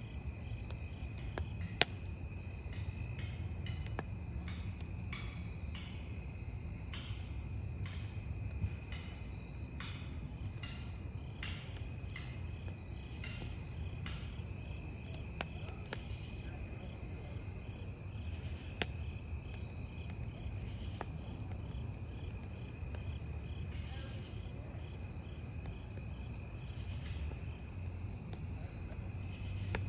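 Crickets chirping steadily over a crackling wood campfire. Scattered sharp pops from the burning wood stand out, the loudest about two seconds in.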